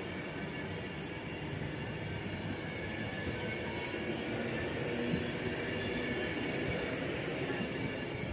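A train running at a station platform: steady engine and rail noise that grows a little louder through the middle.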